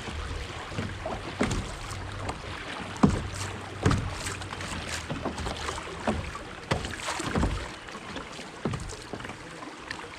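Water rushing and splashing around a small sit-on-top kayak running small river rapids. Irregular knocks and splashes come through, the sharpest about three seconds in and again just before four seconds.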